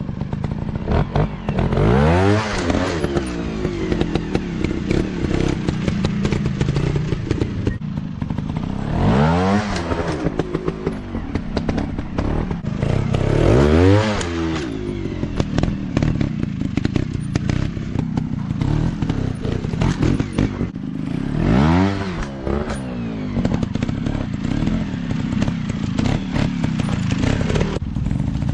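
Off-road motorcycle engines running and revving hard about four times, each rev rising sharply in pitch and then falling back.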